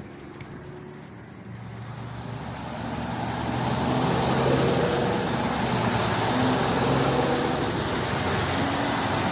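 Motor vehicle running, its engine and road noise growing louder over the first few seconds and then holding steady.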